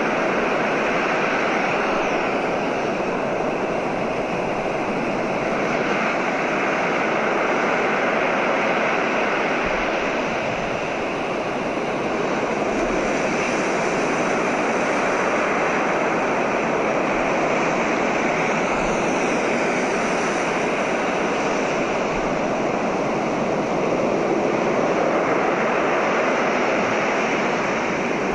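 Recorded ocean waves: a steady rush of surf that swells and eases slowly.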